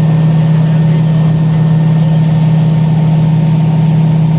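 Boat engine running steadily: an even, unchanging low hum.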